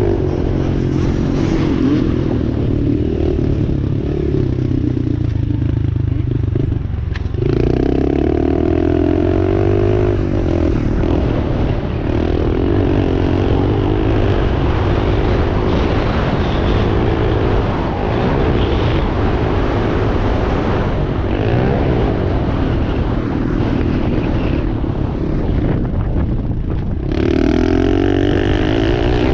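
Dirt bike engine running hard, its pitch climbing and dropping again and again as the throttle is opened and closed through the gears. There are strong surges about a quarter of the way in and near the end.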